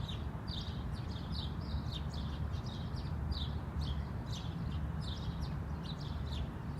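Small birds chirping, with short high falling notes two or three times a second, over a low steady rumble.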